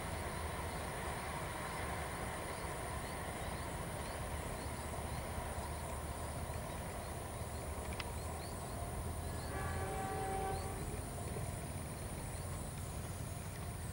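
Low rumble of a passenger train pulling away into the distance, over a steady high insect drone. About ten seconds in, a faint horn sounds for about a second.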